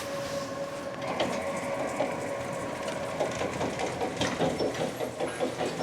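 Ship's passenger elevator descending: a steady running hum with irregular mechanical clicking and rattling, the clicks growing busier in the second half.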